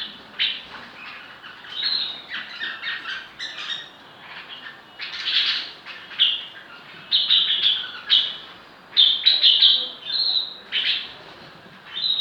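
Birds chirping: many short, high calls repeated irregularly and overlapping, loudest in the second half.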